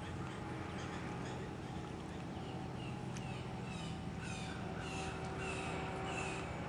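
A bird calling repeatedly: short, slightly falling calls about twice a second, starting about halfway in, over a steady low hum.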